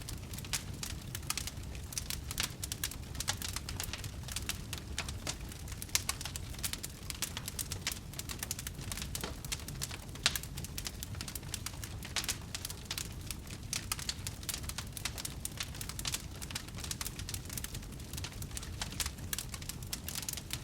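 Wood fire burning in a fireplace: dense, irregular crackling and snapping over a low, steady rumble of flame, with a couple of sharper pops.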